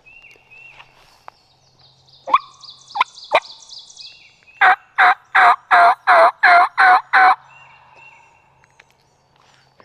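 Wild turkey calling: a few sharp clucks, then a run of eight loud yelps at about three a second.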